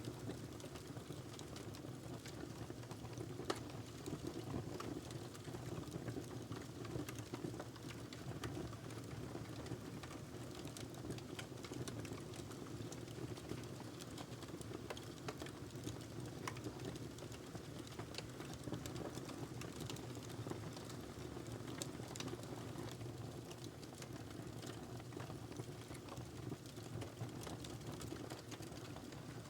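Wood fire crackling steadily: a low rush of burning under frequent small irregular pops, with one sharper pop about three and a half seconds in.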